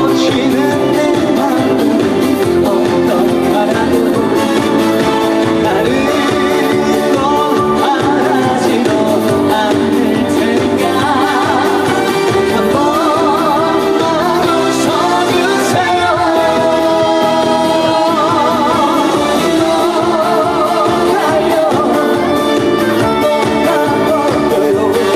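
Live trot music: a male singer singing over loud, steady instrumental accompaniment.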